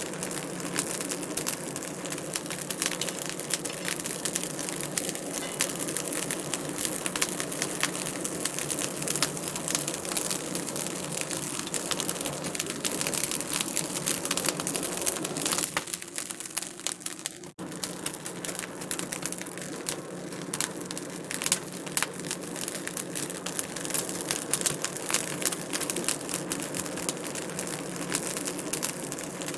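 Wood fire crackling in a fireplace: a steady stream of irregular snaps and pops over a soft hiss. About seventeen seconds in it briefly fades and cuts out for an instant, then carries on.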